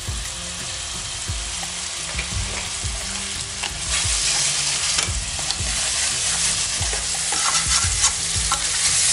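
Prawns frying in hot oil with chilli and cumin powder, sizzling steadily while a silicone spatula stirs them and knocks against the frying pan; the sizzle grows louder about four seconds in.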